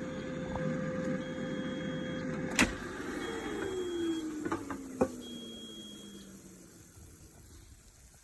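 Air fryer fan running with a steady hum, then a loud click about two and a half seconds in, after which the fan winds down in a slowly falling whine. Three long high beeps, about a second each, sound through it, and a few light clicks follow.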